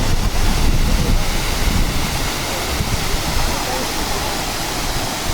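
Waterfall with a steady rush of falling water, and wind rumbling on the microphone.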